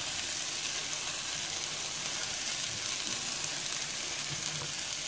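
A chicken, vegetable and tomato mixture sizzling steadily in a cast-iron skillet on the pan's leftover heat, the burner turned off, while a spatula stirs it.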